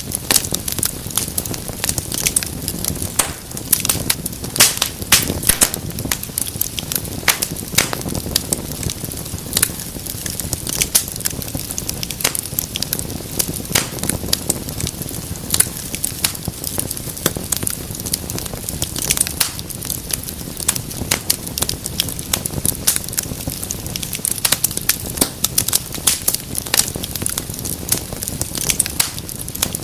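Wood fire crackling in a fireplace: frequent irregular sharp pops and snaps over a low, steady rush of flame.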